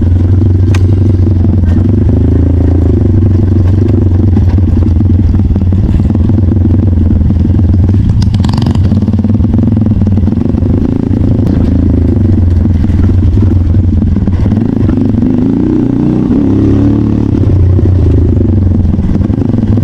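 Trail motorcycle engine running loud and close, its pitch rising and falling with the throttle, with clattering over rough ground. A brief scraping noise comes about eight and a half seconds in.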